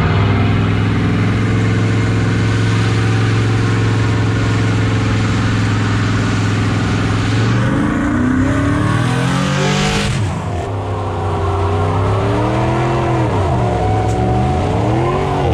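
Vehicle engine held at a steady high rev for about seven seconds, then revved up and down repeatedly.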